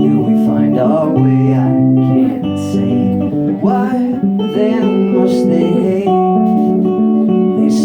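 Live guitar playing an instrumental stretch of a song: strummed chords with held, ringing notes, and a few notes that bend in pitch.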